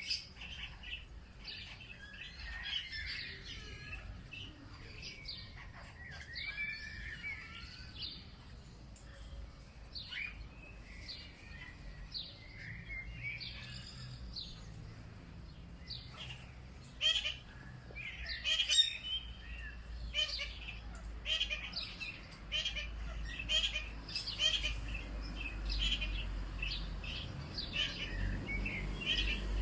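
Several songbirds chirping and singing at once, warbling phrases overlapping with short chirps. From about two-thirds of the way in there is a quick run of sharp, repeated notes.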